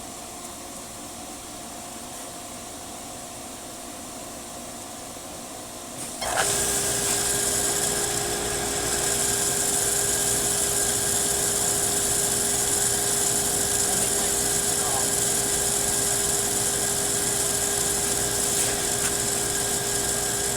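Pool pump motor switching on about six seconds in, then running steadily with a hum and a loud rushing hiss.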